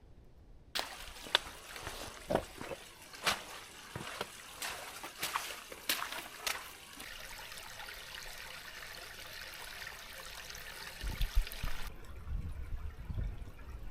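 Water trickling and splashing, with scattered sharp drips and splashes; it starts and stops abruptly. A few low bumps follow near the end.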